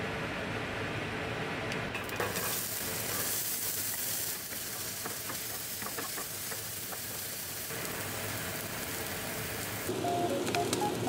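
Diced onion sizzling in hot oil in a frying pan, turned with a wooden spatula, with faint scrapes and taps. The sizzle gets brighter and louder about two seconds in.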